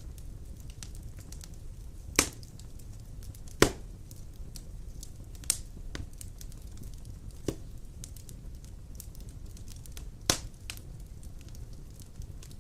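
Wood fire burning in a fireplace: a steady low rumble of flames with scattered sharp crackles and pops, about five of them, the loudest at about two, three and a half and ten seconds in.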